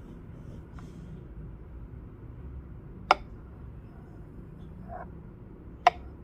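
Two sharp, short clicks about three seconds apart over a low steady hum, with a fainter soft tick between them.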